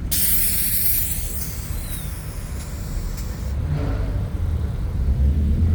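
Car engines rumbling in slow traffic, with a loud hiss that starts suddenly and cuts off about three and a half seconds later.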